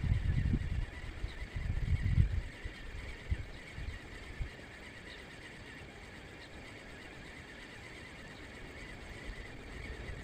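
Wind buffeting the microphone in rumbling gusts for the first couple of seconds, then dying down to a steady low outdoor hiss.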